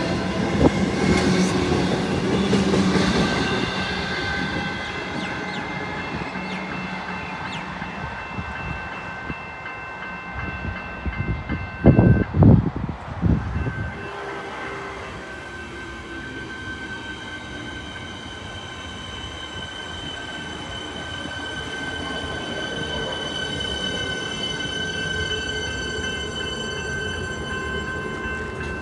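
Metro electric suburban train running, its low rumble dying away over the first few seconds while steady high-pitched whining tones carry on throughout. A few short, loud low thumps come about twelve seconds in.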